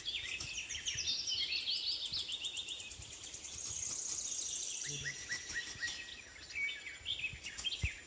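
Small birds chirping over and over in quick, short calls, with a high, fast trill in the middle.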